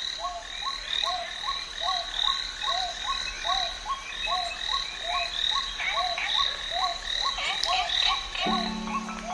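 Frogs calling in a steady rhythm, about two short rising-and-falling calls a second, over a high continuous chorus. Music comes in near the end.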